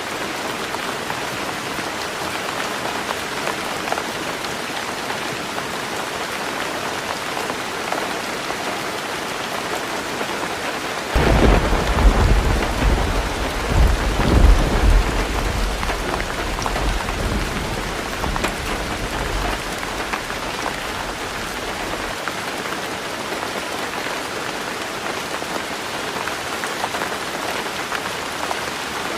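Heavy rain drumming steadily on a tin roof. About a third of the way in a thunderclap breaks in suddenly, rumbles loudest for a few seconds, then fades away while the rain keeps on.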